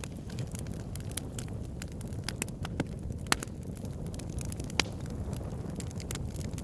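Campfire burning: a steady low rumble of the flames with irregular sharp crackles and pops from the wood, the loudest pops coming at about three seconds in and again near five seconds.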